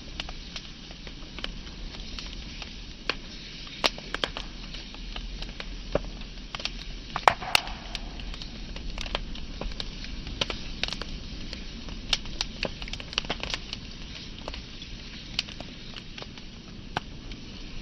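Wood fire crackling: irregular sharp pops and snaps over a steady low hiss, with one louder pop about seven seconds in.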